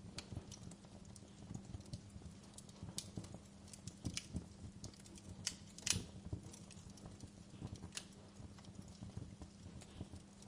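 Wood fire crackling in a fireplace: irregular small pops and snaps, with one louder pop about six seconds in, over a steady low hum.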